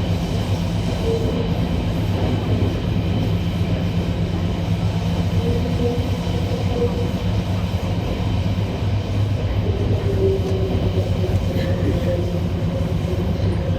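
Guangzhou Metro Line 6 train running between stations: a steady rumble and low hum, with faint higher tones that rise and fade several times.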